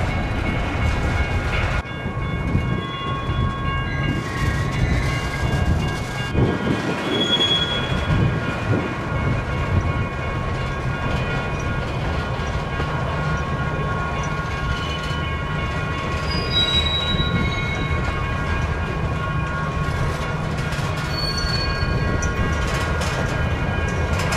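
Railroad cars rolling past on steel rails: a steady low rumble and clatter with several thin, high wheel squeals held over it. The sound changes abruptly about two seconds in and again about six seconds in.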